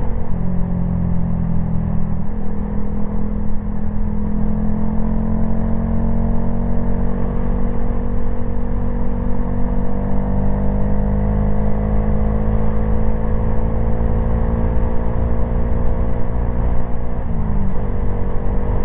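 Honda Grom's 125 cc single-cylinder engine pulling on the road, its note climbing slowly as the bike gathers speed. The pitch dips briefly about two seconds in and again near the end at gear changes.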